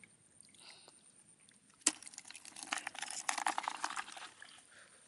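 Water splashing and sloshing with many small clicks, starting with a single sharp knock about two seconds in and lasting a couple of seconds.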